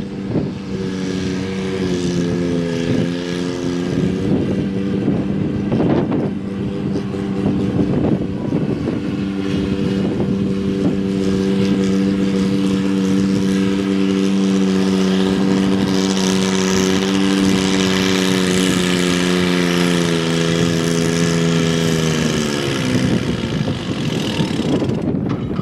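Pulling tractor engine running flat out at high, steady revs under load during a pull. Its pitch steps up slightly about two seconds in, then drops off near the end as the run stops.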